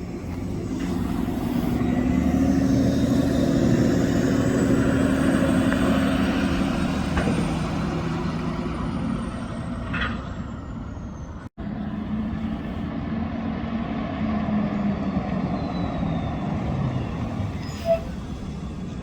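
City transit buses driving past, engines running with a high whine that rises and then falls. There is a brief hiss about halfway through, and a sharp click near the end.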